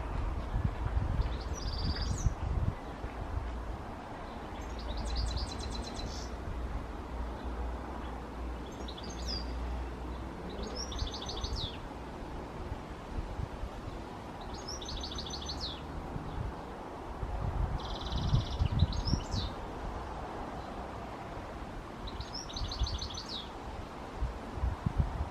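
A songbird singing short, high, rapid trilled phrases, repeated every few seconds, over a low rumble that swells now and then.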